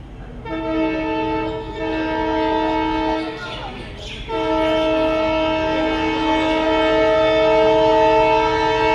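Locomotive horn sounding several pitches together: two blasts of about a second and a half each, then after a short pause one long held blast.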